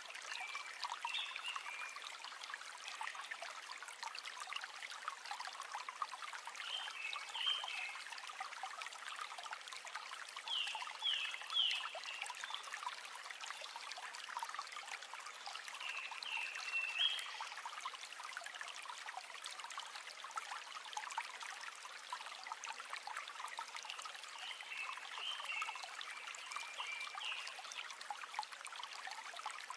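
River water flowing with a steady, even trickle. About five short bursts of high chirps cut through it.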